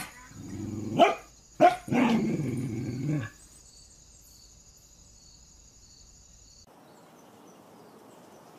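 A dog barking several times in the first three seconds: short sharp barks mixed with longer, lower ones.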